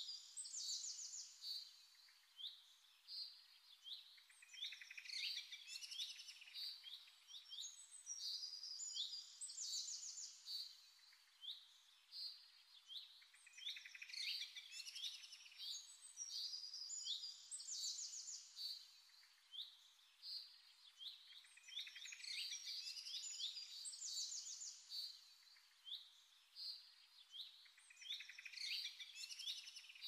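Small birds chirping and twittering: many short, high calls overlapping, with louder flurries every few seconds.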